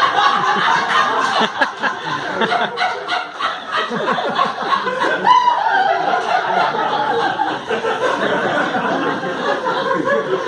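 Audience laughing, sustained and loud.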